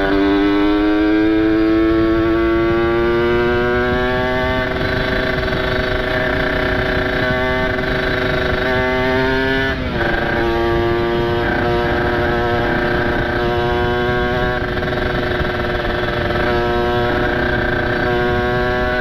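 Kawasaki Ninja 150 RR's ported two-stroke single-cylinder engine and exhaust under way, its revs climbing slowly for about ten seconds. The pitch drops suddenly at a gear change, then holds fairly steady at cruising revs with small rises and dips.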